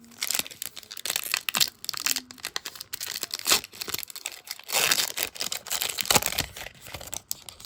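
Plastic trading-card pack wrapper being torn open and crinkled in the hands, a continuous irregular crackle.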